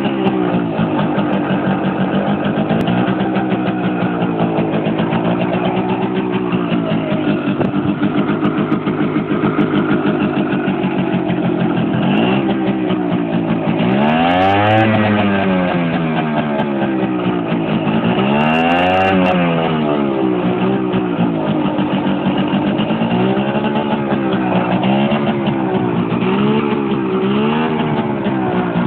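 Simson S51 moped's 50 cc single-cylinder two-stroke engine, its exhaust tailpipe removed, running and being revved again and again: the pitch keeps rising and falling. Two bigger revs come around the middle, and quicker short blips follow near the end.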